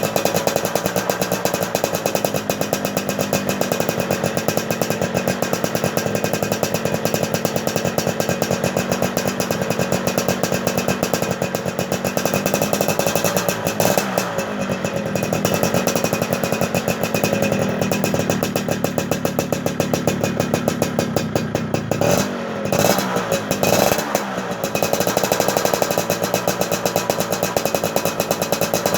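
Motorcycle engine running after sitting unused for a month, with a fast, even beat. The revs dip and pick up again about halfway through, and twice more a little later.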